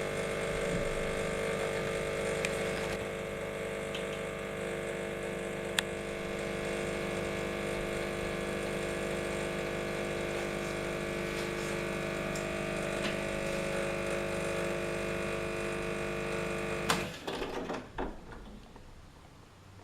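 Saeco MonteCarlo super-automatic espresso machine running with a steady hum that stops about seventeen seconds in, followed by a few clicks and knocks.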